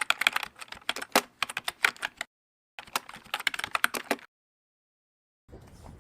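Rapid keyboard typing clicks in two runs, with a short dead-silent gap between them and silence after. A low steady rumble starts near the end.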